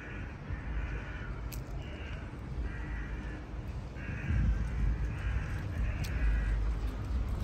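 A bird calling repeatedly, short calls about once a second, over a low rumble that grows louder about halfway through.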